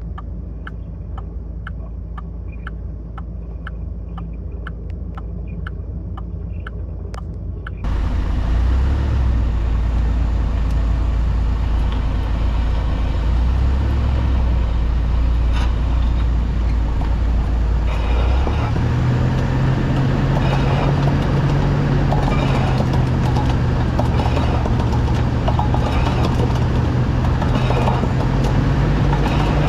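Car on the move with a low drone from a worn wheel bearing; the drone steps up in pitch about two-thirds of the way through and keeps climbing slowly, the hum that grows louder with road speed. Before the drone starts, a quieter stretch carries a light, regular tick about twice a second.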